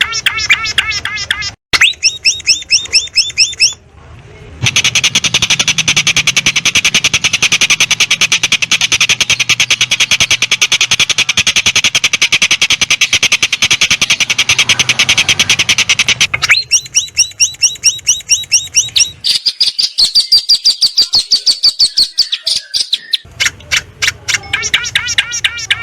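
Songbirds singing in fast, repeated trills and a long, dense chattering rattle, in segments that start and stop abruptly one after another. This is a recorded bird-song compilation of the kind used to teach calls to a long-tailed shrike.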